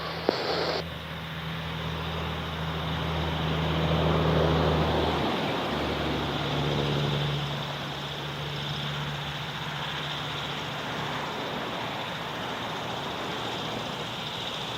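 Drone of a light piston-engined propeller aircraft passing, swelling to a peak about four seconds in, then dropping in pitch and fading to a steady hiss.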